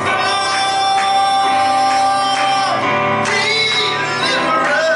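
Church worship song: voices singing with instrumental backing, one note held for the first two and a half seconds before the melody moves on.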